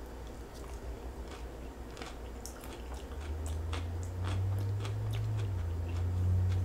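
Close-up chewing of crisp sautéed broccoli, with small crunches in the mouth. About three seconds in a low steady hum comes in and grows louder.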